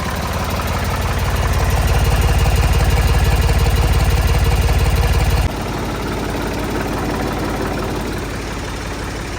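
Old Ford diesel tractor engine running steadily at idle with an even firing beat, freshly restarted after its fuel system was cleaned and the injector lines bled; it sounds like it is running well. The sound is louder at first and drops suddenly about five and a half seconds in.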